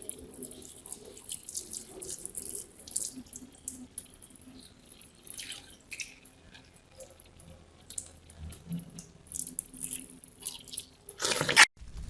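Water running and splashing irregularly, as from a tap into a sink, with drips. It cuts off abruptly near the end, and a steady rushing noise begins.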